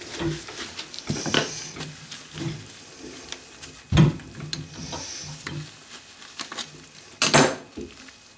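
Hand-work handling sounds: scattered clinks and knocks with short scraping strokes, a sharp knock about four seconds in and a louder rattling scrape near the end.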